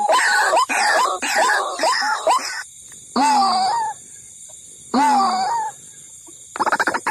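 White-breasted waterhen calling, played as a trapping lure: a run of quick notes, each sliding upward, then two longer calls with short pauses between them. Near the end a fast, stuttering series of notes begins.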